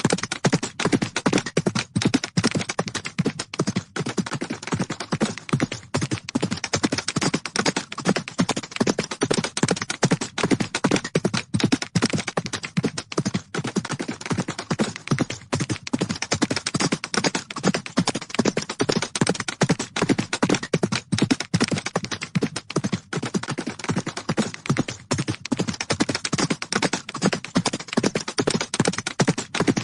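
Hoofbeats of galloping horses: a rapid, continuous run of strikes on the ground.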